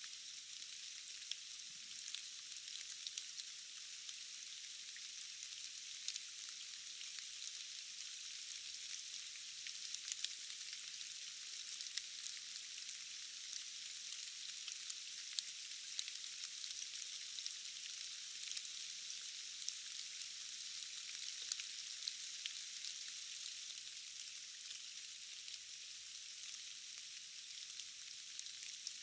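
Steady rain: an even, thin hiss without low rumble, dotted with many small ticks of individual drops.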